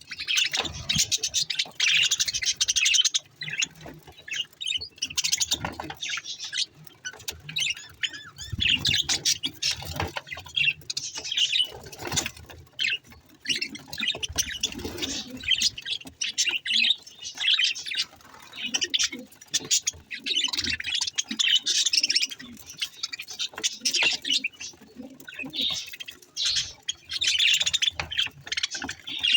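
Budgerigars chattering and warbling: a dense, continuous stream of quick high chirps, squeaks and clicks.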